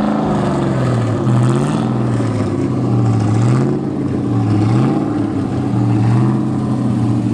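Nissan 350Z's 3.5-litre V6 running through a Tomei aftermarket exhaust at low speed. It gives a steady, loud drone whose pitch dips and comes back up about three times as the throttle is eased and reapplied.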